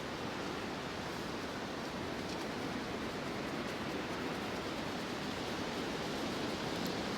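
Strong, gusty wind blowing against and shaking the tent, heard from inside as a steady rushing noise.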